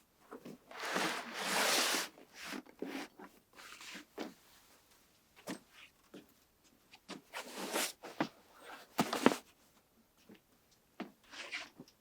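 Rustling and swishing of gear being handled, with scattered clicks and knocks; the sharpest knock comes about nine seconds in.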